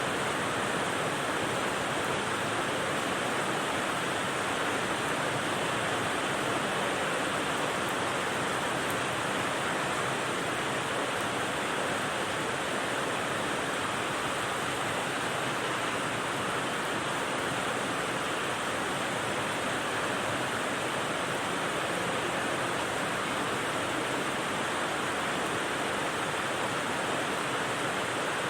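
Rain white noise: a dense, even hiss with no single drops standing out, holding steady throughout.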